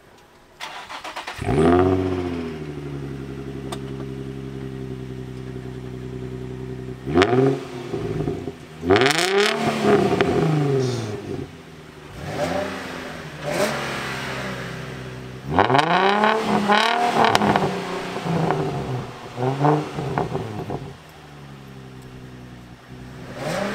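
Nissan Z sports car's V6 engine idling and being revved again and again, the pitch climbing and falling back with each blip. Several revs come in clusters, with a steady idle in between.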